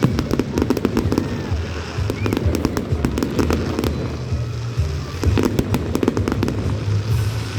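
Fireworks going off: rapid crackling pops over a low rumble, with a few short whistles.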